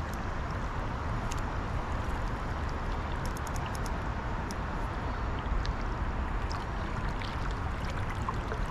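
Steady rush of flowing river current, with a few faint light ticks about three to four and a half seconds in.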